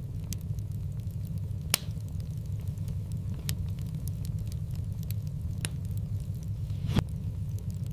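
Wood fire burning in a fireplace: a steady low rumble of flames with scattered crackles and a few sharp pops, the loudest about two seconds in and near the end.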